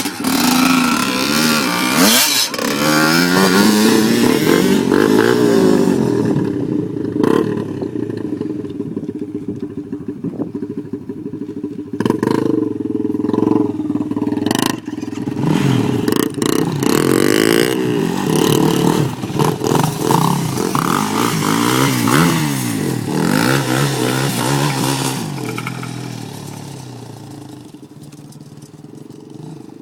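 Off-road dirt bike or ATV engine being ridden hard, its pitch rising and falling over and over with each throttle blip and gear change, with clattering knocks. It fades away over the last few seconds.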